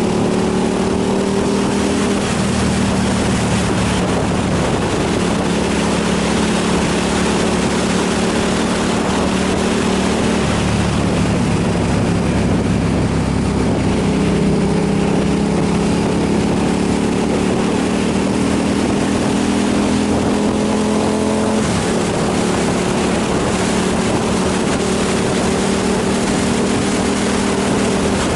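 Motorcycle engine running at a steady cruise under a heavy rush of wind, its pitch creeping up slowly and dropping suddenly about three-quarters of the way through, as at a gear change or easing off the throttle.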